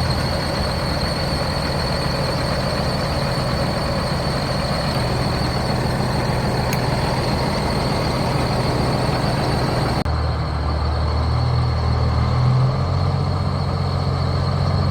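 Peterbilt semi truck's diesel engine running at idle, with a thin steady high whine above the engine note. About ten seconds in the sound changes abruptly, and the engine note then shifts up and down.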